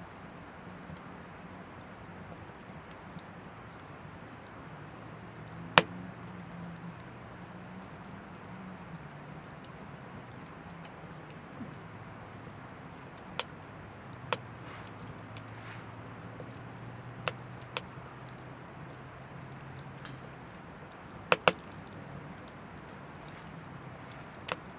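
Oak firewood burning in a wood stove: scattered sharp crackles and pops over a low steady rumble, the loudest pop about six seconds in and a quick cluster of pops near the end.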